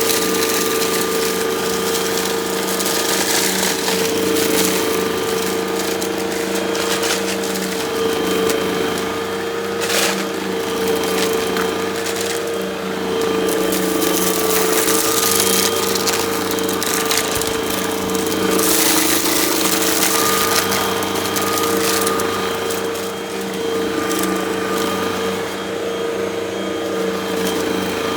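Vacuum cleaner running steadily with a constant motor hum, sucking up crunchy debris that crackles and clicks through the hose and brush.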